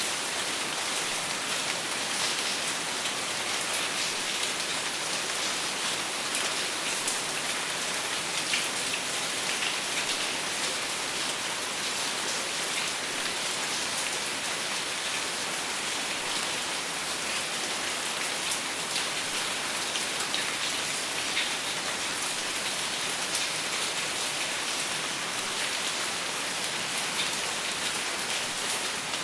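Steady rain falling on a surface, an even hiss with many fine individual drops ticking, without thunder.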